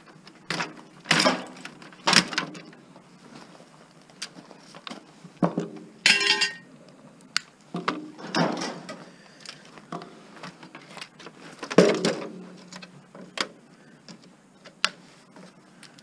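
Scattered knocks, clicks and short scrapes as the parts of a stripped electronic unit are handled and its wires pulled out, with a brief rattle about six seconds in.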